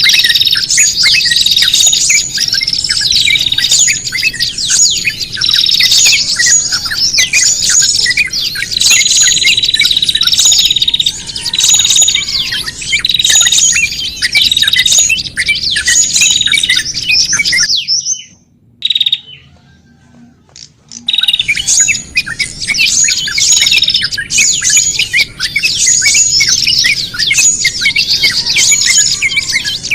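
A dense, noisy chorus of many small songbirds chirping and chattering at once, a bird-lure (pikat) recording of small birds. Rapid, repeating high chirps, broken by a gap of about three seconds a little past the middle before the chatter resumes.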